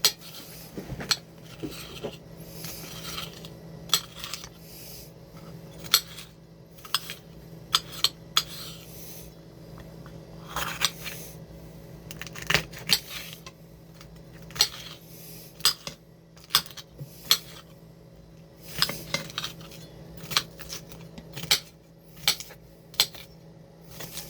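Kitchen utensils clinking and knocking against dishes at irregular intervals, one or two sharp clicks a second, over a faint low steady hum.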